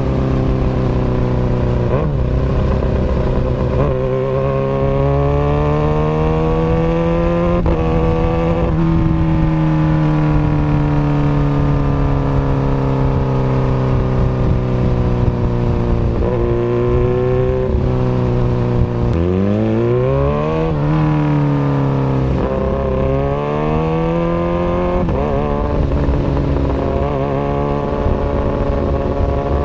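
Kawasaki Ninja ZX-636 inline-four sport bike running through an Austin Racing aftermarket exhaust, its engine note climbing and falling with the revs. Several sudden drops in pitch break the climbs, like gear changes, and about two-thirds through the note dips sharply and shoots back up.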